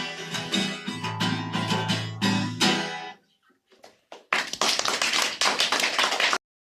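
Strummed guitar playing the closing chords of a song, stopping about three seconds in. After a short pause, applause begins and then cuts off abruptly near the end.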